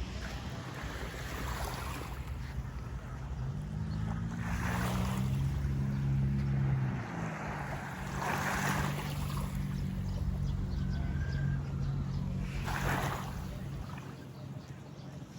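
An engine running steadily, its pitch rising about three seconds in and then holding, with several swells of rushing noise over it.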